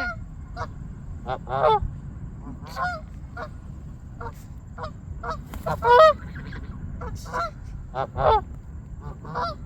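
Canada geese honking: a string of short, separate honks at uneven intervals, the loudest about six seconds in.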